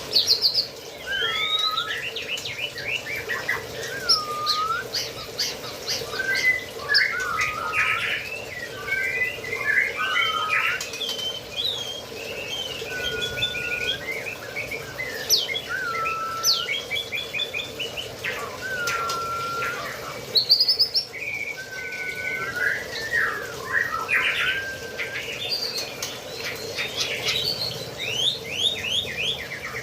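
Several caged birds calling over and over: dipping, scooping whistles mixed with quick runs of high chirps, over a steady low hum.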